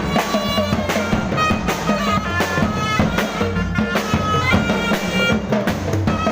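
Thai procession band music: a reedy wind-instrument melody held over steady, regular drum beats.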